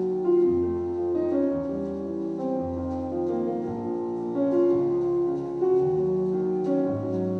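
Piano music playing: slow, sustained notes moving step by step, in the manner of a romance or waltz.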